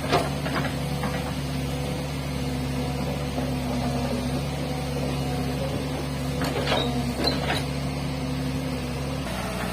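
Hitachi excavator's diesel engine running steadily, with a few sharp knocks from the working machine; the engine note drops about nine seconds in.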